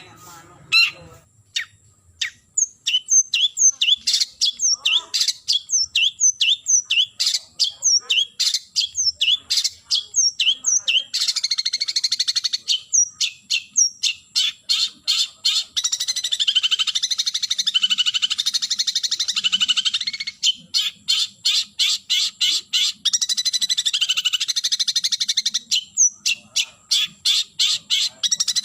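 Long-tailed shrike calling: a run of sharp, falling notes about two a second, breaking into a long, fast, harsh chatter, then single notes again and a second chatter near the end.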